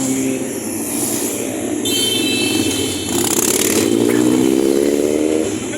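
Motorcycle engines on the street, one revving up with a steadily rising pitch from about three seconds in, the loudest part, before it falls away near the end.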